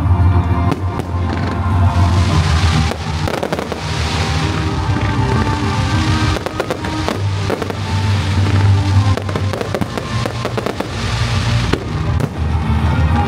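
Fireworks and firecrackers going off in rapid, dense crackling volleys over loud music with a heavy bass.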